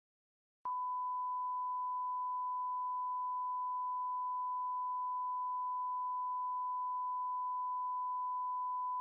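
Steady 1 kHz reference test tone, the line-up signal of a bars-and-tone leader: one pure, unchanging pitch that comes on with a slight click just under a second in.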